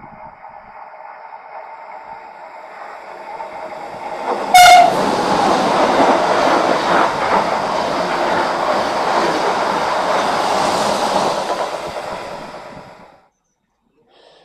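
A Renfe train approaching with a steadily rising hum, giving one short horn blast about four and a half seconds in. It then passes close by with a loud rush of wheel and rail noise that lasts about eight seconds and cuts off abruptly.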